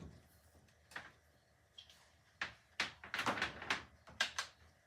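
Irregular sharp knocks and clacks of hard objects being handled: a single knock about a second in, then a quick run of them in the second half.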